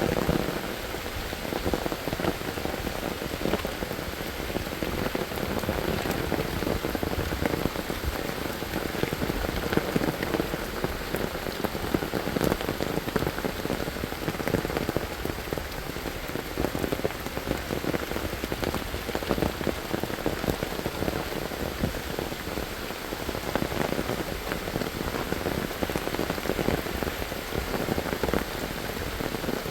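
Steady rain falling, a dense, even patter of many drops on surfaces.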